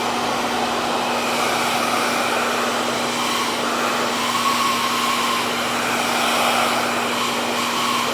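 RevAir reverse-air hair dryer running steadily, drawing air in through its wand: an even rush of air over a steady low motor hum.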